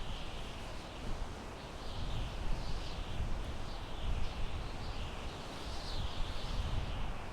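Wind blowing through pine trees: a steady rushing hiss over a gusty low rumble, with small birds chirping again and again in the background.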